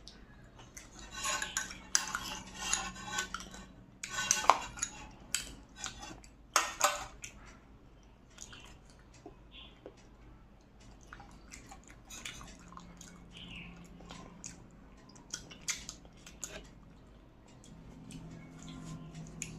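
Tableware clinking and scraping on a plate while a meal is eaten. It is busiest in the first seven seconds, with sharp strikes around four and a half and seven seconds in, then thins to scattered faint clicks.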